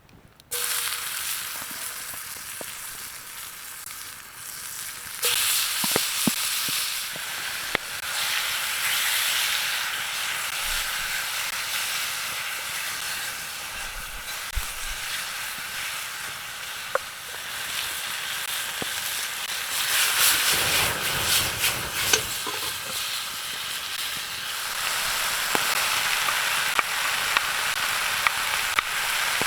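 Food frying in a pan: a steady sizzle with scattered pops. It starts suddenly just after the beginning, grows louder about five seconds in, and swells again around twenty seconds.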